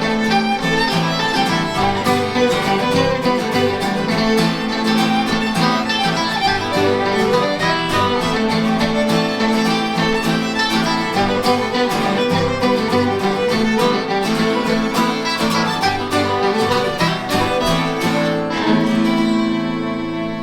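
Fiddle playing a Cape Breton–style tune over strummed electric guitar accompaniment. Near the end the rhythm stops and the playing settles onto a long held final chord.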